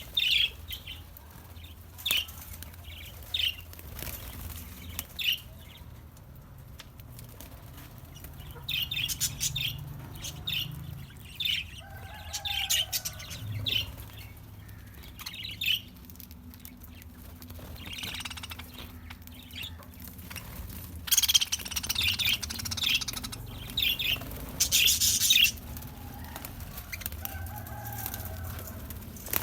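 Small aviary birds chirping in short, repeated high calls, now and then in quick runs, with a few lower calls and bursts of wing flapping.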